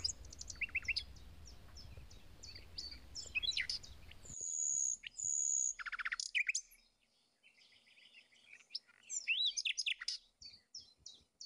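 Small birds chirping: many short high chirps and twitters, with a brief lull about seven seconds in.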